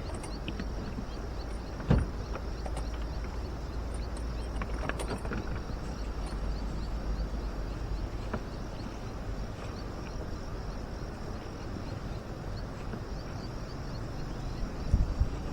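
Outdoor ambience with a steady low rumble, scattered small clicks and taps, and one sharp knock about two seconds in.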